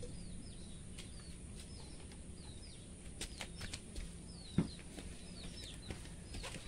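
Small birds chirping over and over, each chirp short and falling in pitch, with a few light clicks and one sharp knock about four and a half seconds in.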